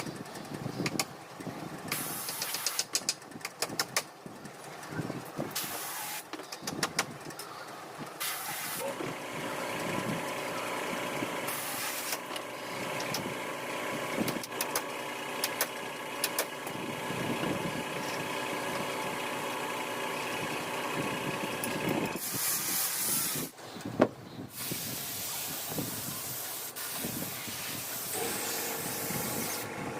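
Workshop noise: sharp clicks and knocks, then a motor running steadily from about eight seconds in, with repeated bursts of hissing air.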